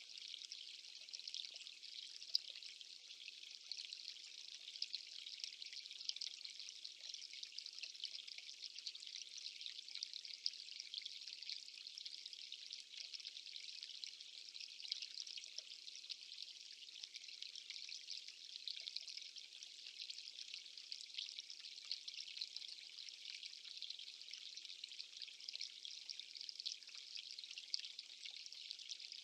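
Steady, faint rush of water with a fine pattering texture.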